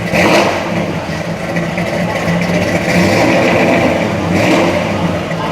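Dodge Super Bee's 440 Six Pack V8 running through a Flowmaster exhaust with a deep, steady rumble, blipped louder right at the start and again about four seconds in.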